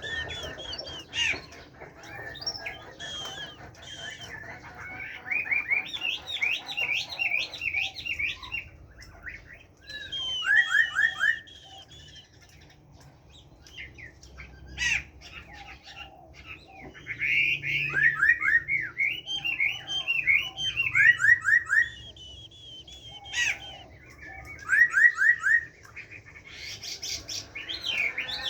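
Chinese hwamei singing: loud, varied whistled phrases broken by quick runs of repeated slurred notes, with a quieter lull about twelve seconds in.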